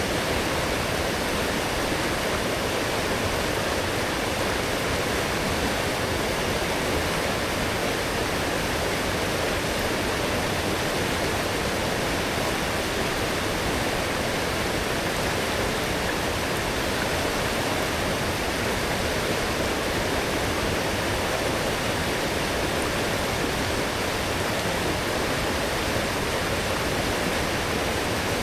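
A strong, rain-swollen forest stream rushing steadily, an even roar of flowing water.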